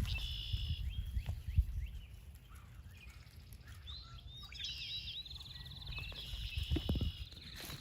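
Several songbirds singing: short whistled phrases and, about five seconds in, a fast even trill, over a steady low rumble.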